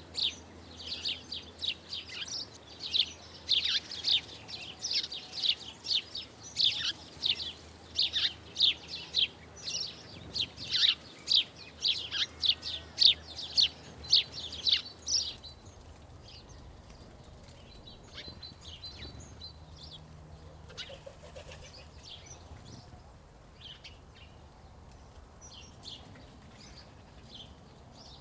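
Small birds chirping in quick, repeated short notes, several a second; about halfway through the chirping turns fainter and sparser.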